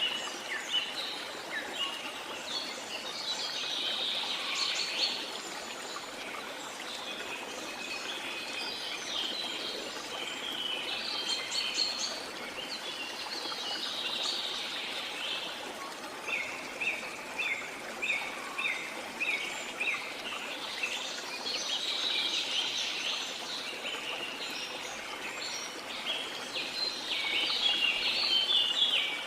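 Several birds singing and calling over a steady rush of flowing water. Partway through, one bird gives a run of repeated chirps, about two a second.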